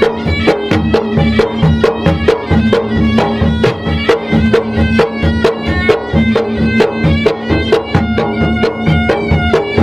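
A traditional Makassar-Bugis gendang drum ensemble from Maros playing quick, steady drum strokes, with a reedy wind-instrument melody wavering above them, typical of the pui-pui shawm.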